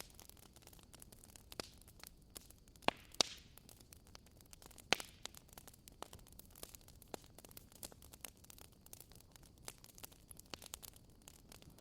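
Wood fire crackling in a fireplace: irregular snaps and pops over a low steady hiss, with a few louder pops about three and five seconds in.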